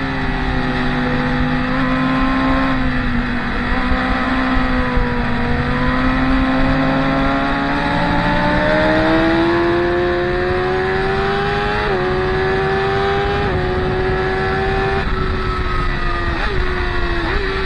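Racing motorcycle engines on a circuit, one engine note climbing steadily as the bike accelerates. In the second half the pitch drops sharply several times at upshifts and then climbs again.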